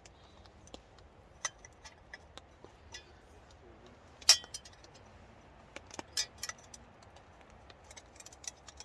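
Parts of a folding camp table being handled and clipped together: scattered clicks and clinks, the loudest about four seconds in and again about six seconds in.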